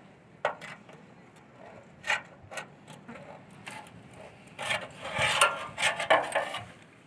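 Handwork on a small build: scattered clicks and knocks, then about two seconds of scraping and rubbing with knocks mixed in, near the end.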